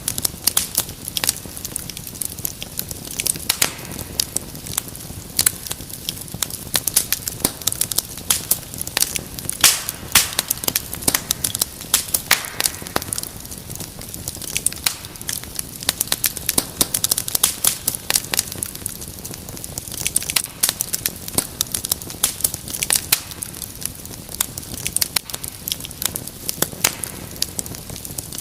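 Wood fire in a fireplace crackling, with frequent irregular sharp pops over a soft steady hiss.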